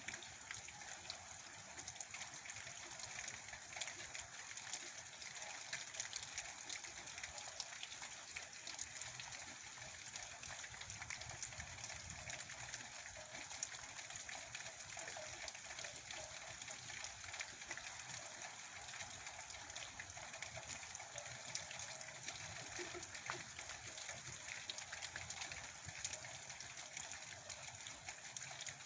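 Steady rain falling: an even hiss of rain with many small, scattered drop ticks.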